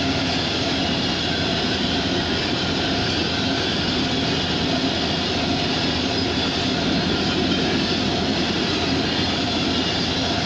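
Freight train of tank cars rolling past: a steady rumble of steel wheels on the rails with no change in level.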